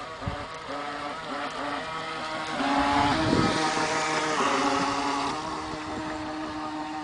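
High Wind 757 NQD electric RC speedboat's motor whining in short on-off bursts as the throttle is blipped. About two and a half seconds in it runs steadily and loudest, with a rush of hiss near three seconds, then settles to a steadier, quieter whine.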